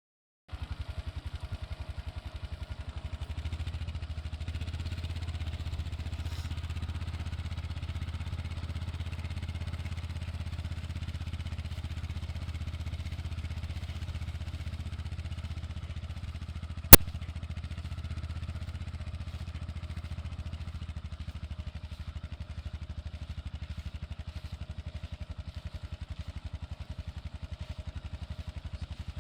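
Engine of the vehicle carrying the sprayer running steadily with a fast, even pulse. A single sharp click a little past halfway.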